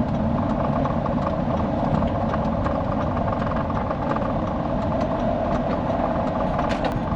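Steady engine and road noise of a vehicle being driven, heard from inside the cab, with faint scattered ticks.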